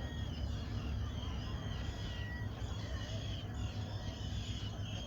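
Small birds chirping and calling in many short, quick notes over a steady low rumble.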